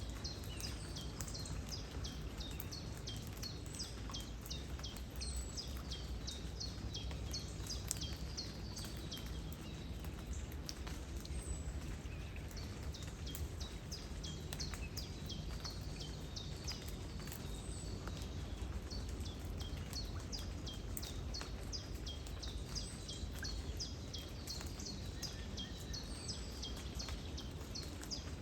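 Steady rain and flowing water with a low rumble, while birds give many short, quick high chirps throughout.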